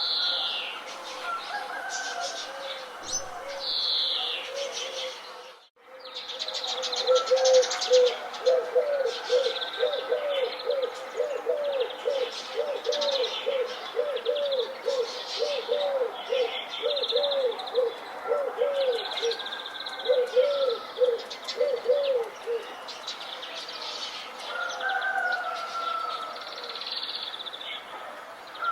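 Mixed birdsong: several birds chirping and trilling, with a long series of low, evenly repeated notes, about two a second, through the middle. A brief break in the sound comes about six seconds in.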